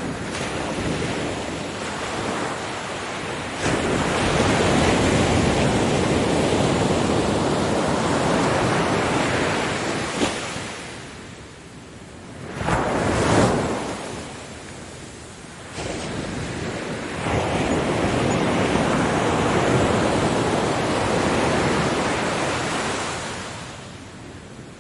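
Ocean waves breaking on a beach, the rush of surf swelling and ebbing in long surges. A wave comes in suddenly about four seconds in, a shorter, sharper one breaks about thirteen seconds in, and another comes in suddenly about sixteen seconds in before washing out near the end.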